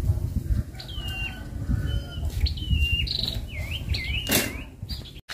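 A small bird calling nearby: a run of short whistled notes that drop and then hold, with a few dipping notes around four seconds in, over a low rumble. A brief noise about four seconds in.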